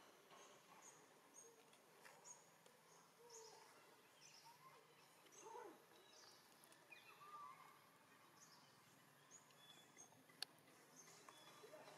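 Faint birdsong: short high chirps repeating every second or so, with a few lower gliding calls and a single sharp click near the end.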